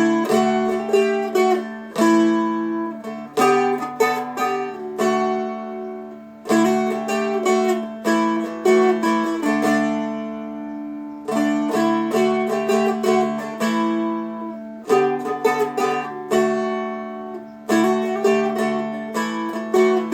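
Seagull Merlin M4 four-string stick dulcimer, flatpicked: a melody of picked notes and struck chords every second or two, over open drone strings that ring steadily underneath.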